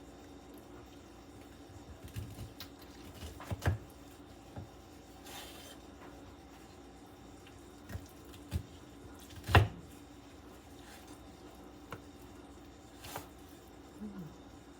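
A knife cutting a rested brisket on a cutting board: scattered knocks and wet clicks, the loudest about nine and a half seconds in. A faint steady hum runs underneath.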